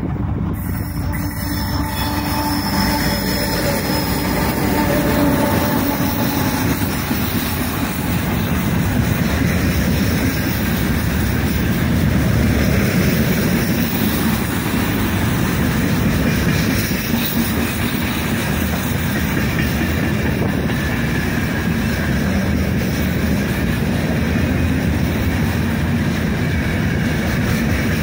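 2TE10MK diesel freight locomotive accelerating past under power, its engine note carrying a whistle. From about halfway through, its train of open freight wagons rolls by close at hand, the wheels clattering over the rails.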